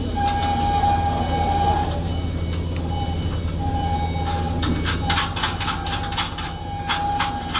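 Steady electrical machinery hum with a thin whine that drops in and out. About five seconds in, a quick, irregular run of sharp metallic clicks and taps begins.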